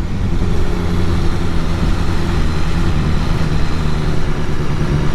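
Motorcycle engine running at steady revs while riding, a continuous even hum.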